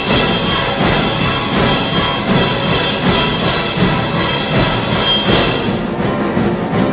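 Variety-symphonic orchestra playing a loud, full instrumental passage, with drums under the sustained winds and strings.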